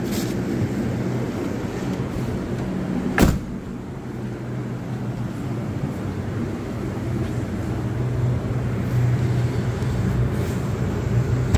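Holden VZ Commodore V6 engine idling steadily, with one loud sharp thump about three seconds in.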